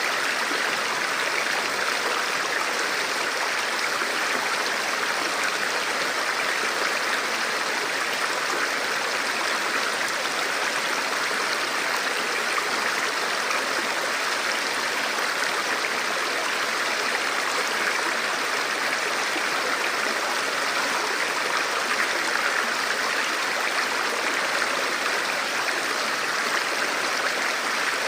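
A forest river or stream flowing over rocks: a steady, even rush of water.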